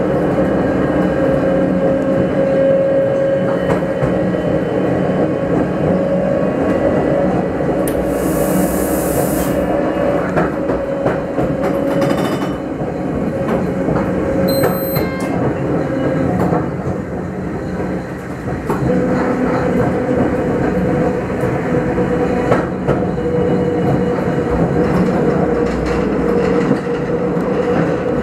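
Electric railcar of the Grütschalp–Mürren line running along the track: a steady whine over the rumble and clatter of wheels on the rails. A short burst of hiss comes about eight seconds in, and a brief high tone about fifteen seconds in.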